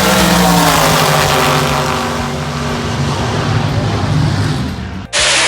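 Muscle car engine running hard on a drag strip, loud, its pitch falling as it passes and pulls away. It cuts off abruptly about five seconds in.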